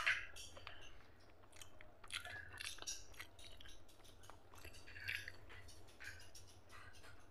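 Close-up chewing of a mouthful of mutton fat curry and rice, with irregular mouth clicks throughout.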